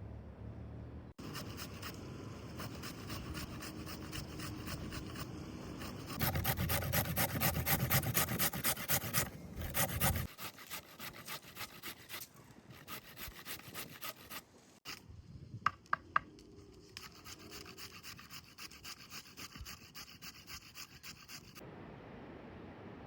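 Rapid rhythmic scraping or rubbing strokes, several a second, in stretches that start and stop abruptly, loudest for a few seconds in the middle, with a few sharp clicks later on.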